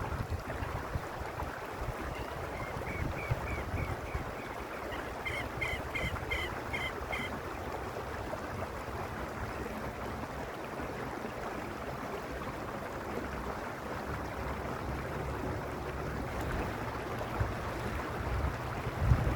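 Mountain stream water rushing and splashing steadily over stones. A short run of high chirps, about two a second, comes in a couple of seconds in and stops after about five seconds.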